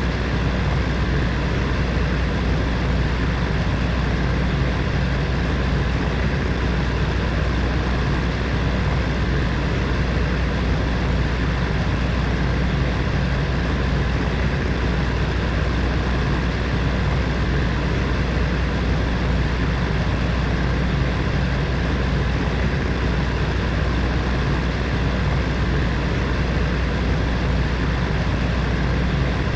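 Electric heater fan running steadily: a constant airy whoosh with a low hum underneath.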